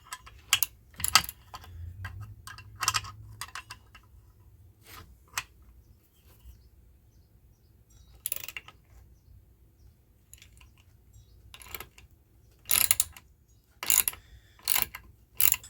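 Scattered sharp metal clicks and clinks of a puller and hand tools being worked on a Tecumseh small engine's tight governor. The clicks come irregularly, bunched at the start and again near the end, with quiet stretches between.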